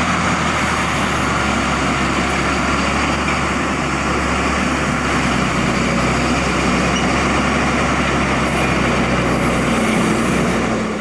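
A de-icing truck's engine running steadily under a loud, even rushing hiss of de-icing fluid being sprayed.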